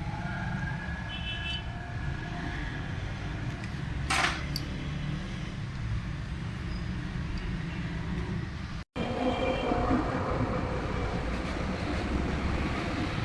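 Steady low mechanical rumble, with a short hiss about four seconds in and a brief cutout of all sound about nine seconds in.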